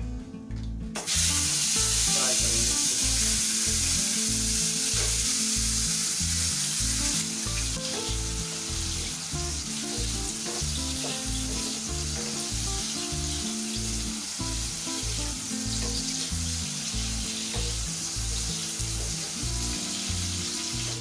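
Quartered button mushrooms dropped into hot oil in a kadhai, starting a loud sizzle suddenly about a second in. The frying eases a little after several seconds and then holds steady as the mushrooms are stirred with a wooden spatula.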